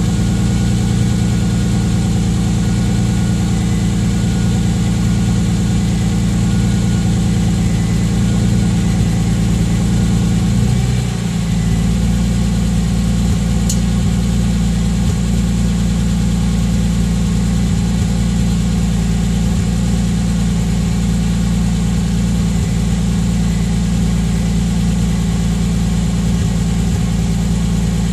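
2003 BMW E46 M3's S54 straight-six idling steadily through a freshly installed Scorpion muffler, Supersprint headers and high-flow cats, on its first start after the install. The idle note drops a little about eleven seconds in.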